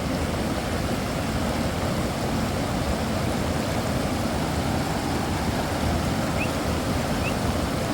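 Steady heavy rain and wind, an even rushing noise with no break. Two faint short chirps sound near the end.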